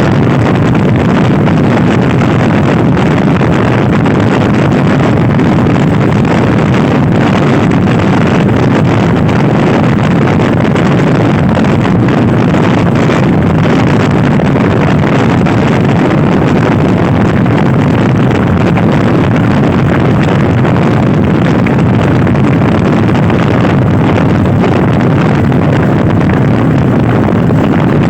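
Loud wind buffeting the microphone over the running engine of a Honda Scoopy-i scooter ridden hard. The sound is a steady rush with no clear engine pitch and no breaks.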